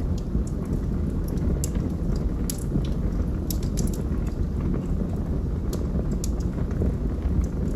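Log fire burning, with irregular sharp crackles and pops from the wood over a steady low rumble of the flames.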